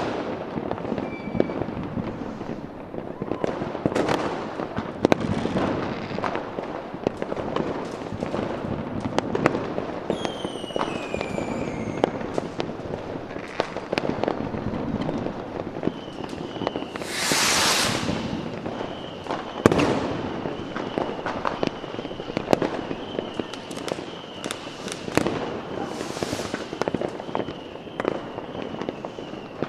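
Fireworks going off: a continuous run of bangs and crackles. About ten seconds in come two falling whistles, about seventeen seconds in a loud hiss lasting about a second, and from about sixteen seconds on a steady high whistling tone.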